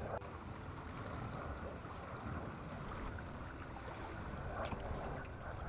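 Steady rush of running water, with a few faint clicks or knocks.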